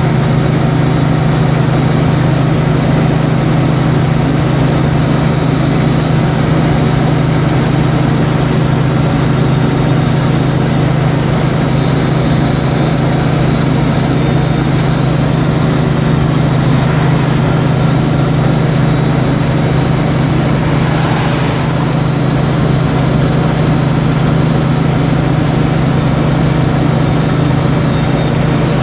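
Steady road and engine noise of a vehicle driving down a highway grade, with a constant low hum. There is a brief swell of hiss about twenty seconds in.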